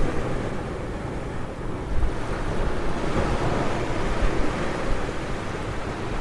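Ocean surf washing up on a beach: a steady rush of waves that swells about two seconds in, with wind rumbling on the microphone.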